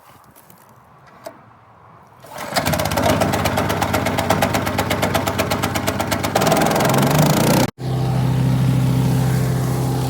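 The wood chipper's RATO 212cc single-cylinder petrol engine starts about two seconds in and runs with a rapid even pulse. Near the end there is a sudden instant of silence, after which the engine runs steadily at an even pitch.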